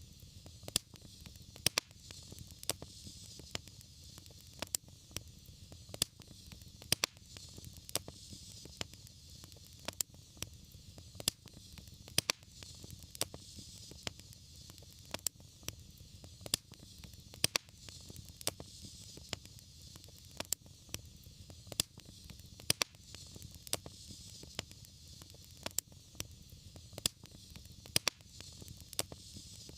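Wood fire crackling in a fireplace: frequent sharp, irregular pops and snaps over a steady low rush and a soft hiss.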